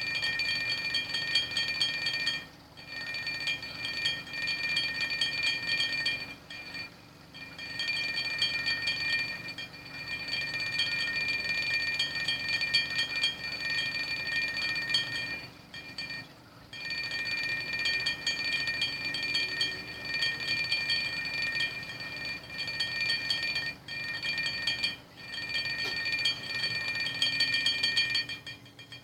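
Glasses clinking rapidly against each other, shaken by a running washing machine's vibration: a continuous ringing jingle that breaks off briefly several times and stops near the end, over a low steady rumble.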